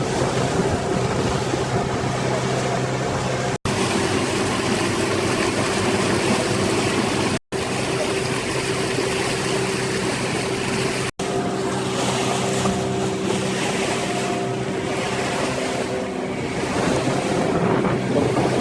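Motorboat engine running steadily, with rushing water and wind noise. The sound cuts out for an instant three times.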